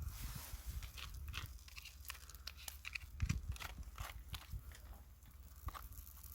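Quiet, scattered small crunches and clicks, irregular and unevenly spaced, over a low steady hum.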